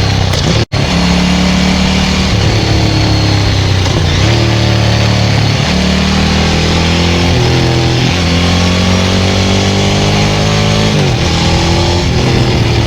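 Ducati 900SL's air-cooled two-valve 90° V-twin running through a Termignoni full exhaust while riding, its pitch rising with the throttle and dropping back several times as the bike accelerates and shifts. A momentary cut in the sound comes less than a second in.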